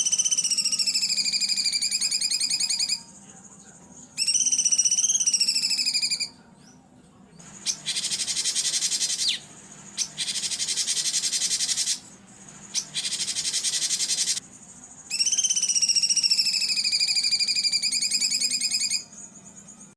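Songbird song from a bird-training recording. Fast trills of high pitched notes alternate with three harsh, buzzy phrases in the middle, over a faint steady hum.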